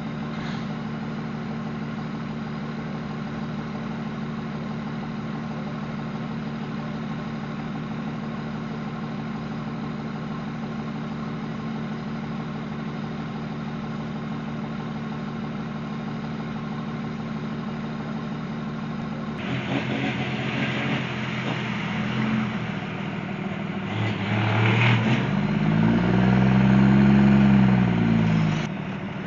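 Steady engine drone of a vehicle on the highway. About twenty seconds in it grows louder, and then an engine revs up and back down, loudest near the end, before the sound cuts off suddenly.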